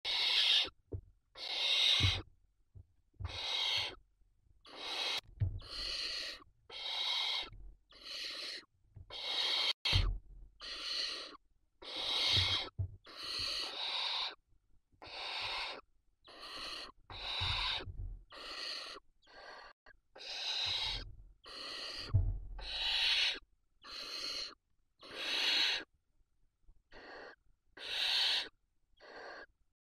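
Barn owl chicks giving their hissing begging calls: a long run of rasping hisses, a little over one a second, each about half a second long.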